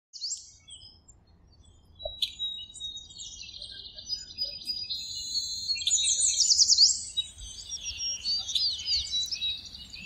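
Small songbirds chirping and whistling together, with quick sweeping whistles crowding in and growing loudest about six to seven seconds in.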